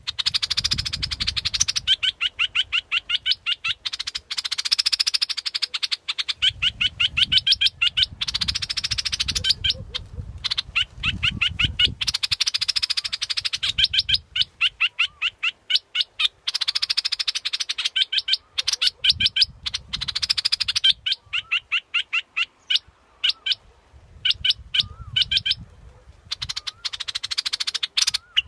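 Yellow bulbul ('dok taeng' bulbul) calling over and over: harsh chattering phrases alternating with quick runs of short clear notes, many to the second. A low rumble lies under some of the phrases.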